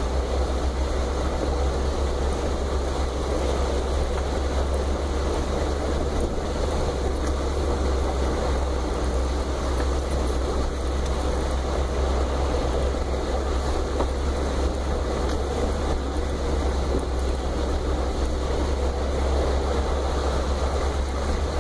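Range Rover's V8 engine running steadily at low revs with a deep rumble, heard from inside the cabin.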